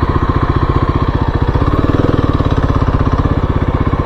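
2023 Kawasaki KLX-300's single-cylinder four-stroke engine running steadily, its firing pulses coming in an even rapid train.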